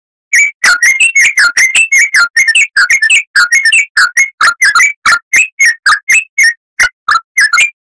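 Oriental magpie-robin (kacer) song: a fast, loud run of short sweeping whistled notes, about four a second, starting abruptly about a third of a second in.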